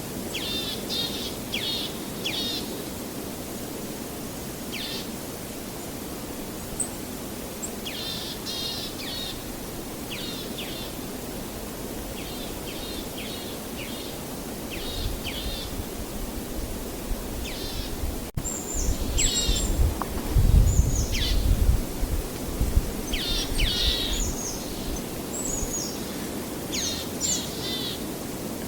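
Songbirds singing short repeated trilling phrases over a steady rushing background. Past the middle a low rumble swells in for several seconds and is the loudest sound, then fades.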